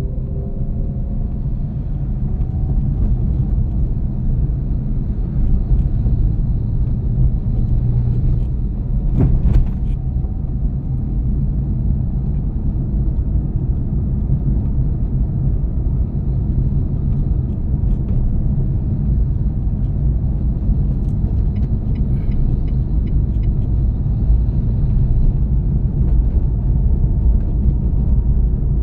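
Truck running on the road: a steady, loud low rumble of engine and road noise, with one short knock about nine seconds in.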